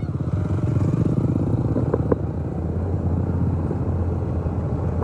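A motor vehicle's engine running steadily: a continuous low drone with road or wind noise over it, and a brief faint tick about two seconds in.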